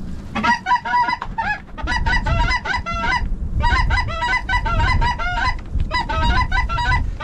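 A flock of snow geese calling: many overlapping short, high honks and barks. There are brief lulls about one and a half and three seconds in, and a low wind rumble underneath from about two seconds in.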